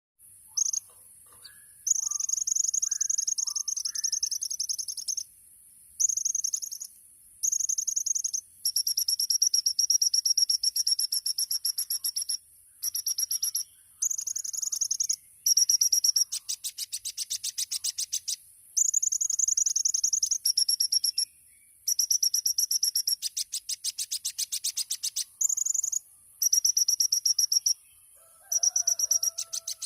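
Kolibri ninja sunbird singing a very high, thin song in repeated phrases of one to three seconds with short pauses between them, several delivered as fast rattling trills. Fainter, lower chirps are heard at the start and again near the end.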